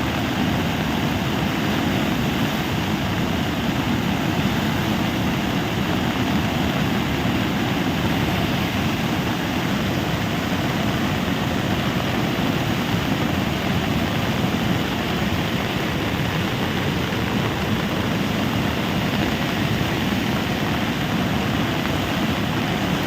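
Steady, unbroken rushing of floodwater, a constant low noise with no rise or fall.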